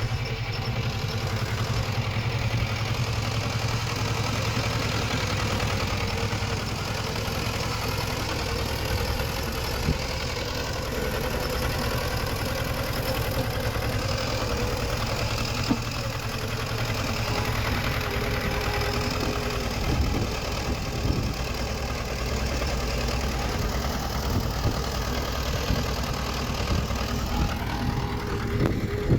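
Diesel engine of earthmoving machinery running steadily, a deep even rumble, with a few short knocks about halfway through and again near two-thirds of the way in.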